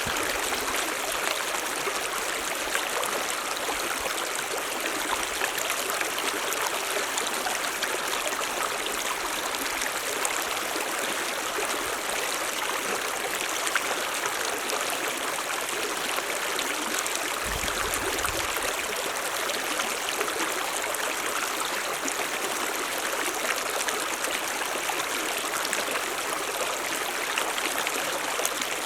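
Stream of running water, a steady even rush.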